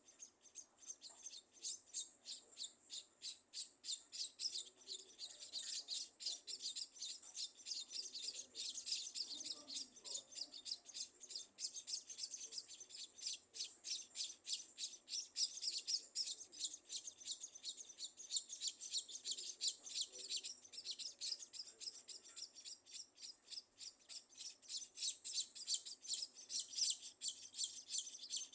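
Scaly-breasted munias chirping: a continuous run of short, high-pitched calls, several a second, with a few louder calls about halfway through.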